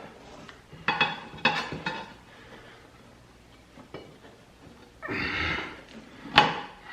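Metal tire irons clinking and knocking against the steel rim and tire changer as a small garden tractor tire is levered onto its rim. Several sharp metallic clicks come about one to two seconds in, a short rushing sound about five seconds in, and a loud knock near the end.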